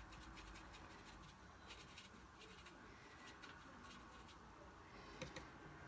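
Near silence with faint, irregular soft ticks and scrapes of a paintbrush working watercolour paint, and one slightly louder click about five seconds in.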